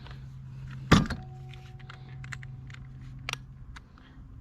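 Tools being handled on a workbench: one sharp knock about a second in with a brief ring after it, then light clicks and clinks, over a steady low hum.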